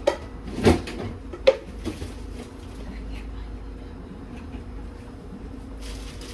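A few sharp knocks of kitchen cookware or cupboards being handled in the first second and a half, then a steady low hum.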